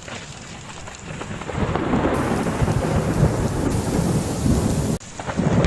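Thunderstorm: heavy rain with a low rumble of thunder that swells about one and a half seconds in. The sound breaks off abruptly near the end and starts again at once.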